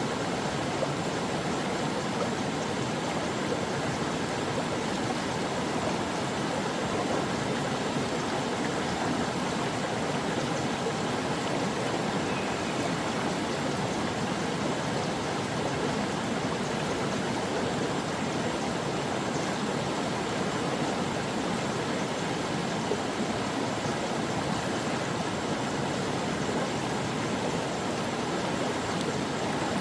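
Stream water flowing over rocks, a steady, unbroken rush and babble.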